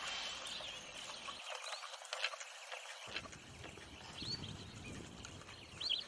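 Faint outdoor ambience with a few short, high chirps scattered through it and faint ticks.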